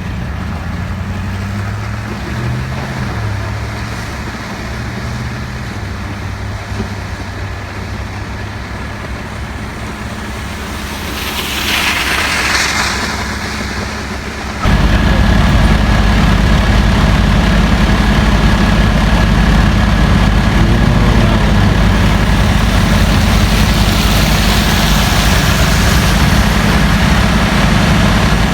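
Heavy truck's engine idling steadily. About halfway through it suddenly becomes much louder and stays that way. Shortly before that, a vehicle passes with a hiss of tyres on the wet road.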